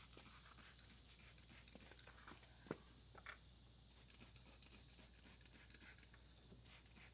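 Near silence with faint scattered clicks, the sharpest one nearly three seconds in.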